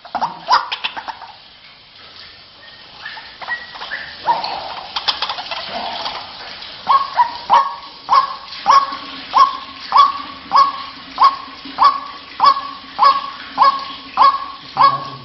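White-breasted waterhen calls, ragged and irregular at first. From about halfway a steady run of short repeated call notes sets in, about one and a half a second. A faint steady hum lies under the repeated notes.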